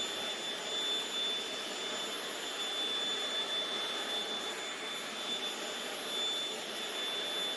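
Vacuum cleaner running steadily: a constant rush of air with a thin high-pitched motor whine over it.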